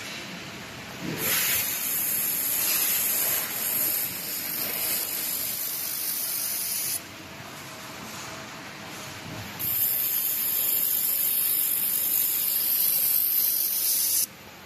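Laser welding machine welding: a steady hiss in two long runs, one of about six seconds and one of about four and a half, with a short quieter pause between.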